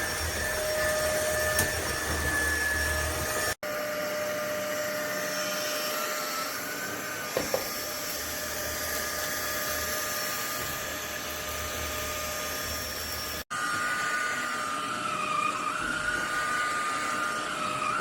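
Fieety 50kPa cordless stick vacuum running with a steady motor whine, broken by two sudden brief dropouts. Near the end its pitch dips briefly and recovers, twice.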